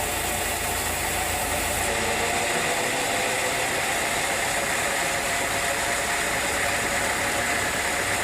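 Sawmill machinery running steadily. About two seconds in, the low rumble and the top hiss drop away, and it carries on at a slightly different tone.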